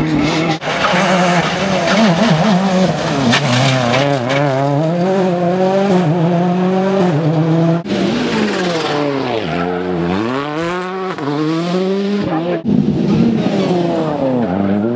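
Turbocharged four-cylinder World Rally Car engines revving hard, the pitch climbing through each gear and dropping on shifts and braking, several times over. The sound breaks off abruptly twice as it switches to another car.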